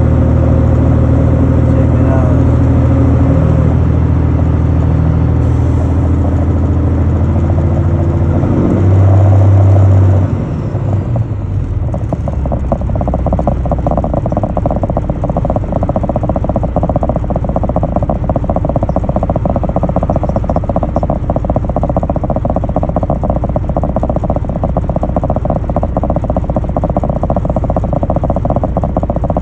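A truck's diesel engine running steadily with a dense rattling note. For about the first ten seconds, held low tones that shift pitch in steps lie over it; they swell and cut off about ten seconds in, leaving the engine alone.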